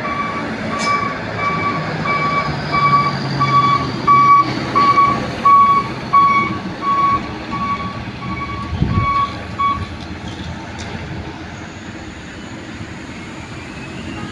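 Truck's reversing beeper sounding a steady high beep about one and a half times a second over a running diesel truck engine, stopping about ten seconds in.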